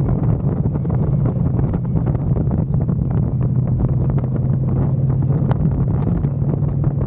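Motorcycle engine running at a steady speed under heavy wind noise on the microphone while riding.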